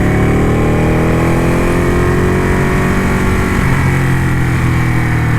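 Ducati motorcycle engine accelerating, its pitch rising over the first couple of seconds, then running steadily at speed.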